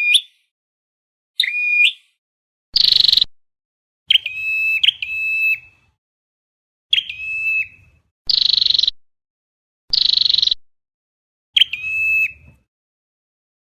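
Flowerpecker ('chim sâu đầu đỏ') calls from a lure recording for bird trapping. Sharp, high hooked call notes alternate with harsher buzzy bursts, about one call every second or so, loud and somewhat distorted.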